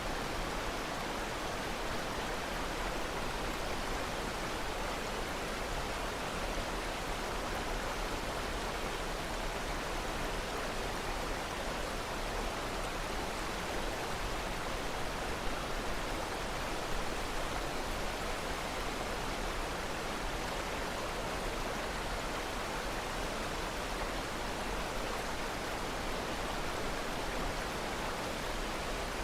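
Steady rushing of flowing water, like a stream or waterfall, an even hiss with no breaks or strokes.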